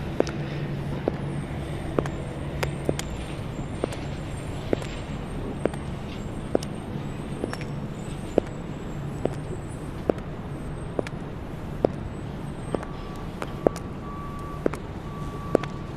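High-heeled shoes clicking on pavement at a steady walking pace, a little over one step a second, over the steady rumble of city traffic. A broken beeping tone starts near the end.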